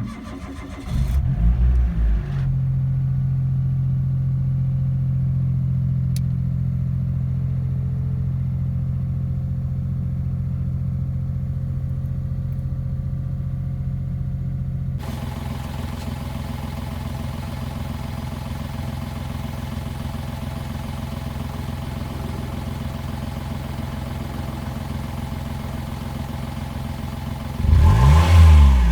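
Daihatsu Mira Gino L700S's 660 cc three-cylinder engine, breathing through a newly fitted cannon-style aftermarket muffler, starting up. It flares briefly, then settles into a steady low idle. Near the end it gives one quick rev and falls back to idle.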